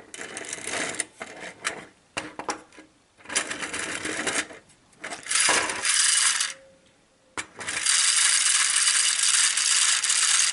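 The clockwork motor of a tinplate toy locomotive runs in jerky stop-start bursts, stalls briefly, then picks up about seven and a half seconds in and runs steadily with a fast metallic rattle. Its gears are stiff after decades unused.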